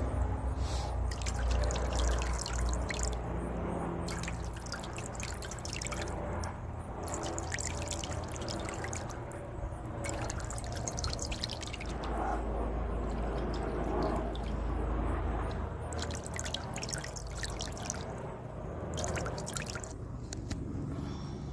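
Solar bird bath fountain running, its spray of water pattering and dripping back into the basin as many small, quick droplet splashes, with a low rumble underneath.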